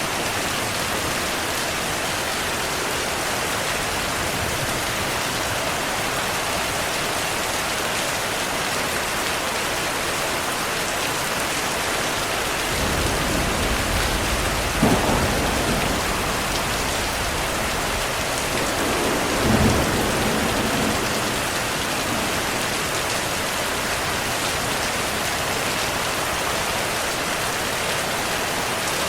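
Steady heavy rain. Thunder rumbles in about midway, with two sharper cracks a few seconds apart, then dies away.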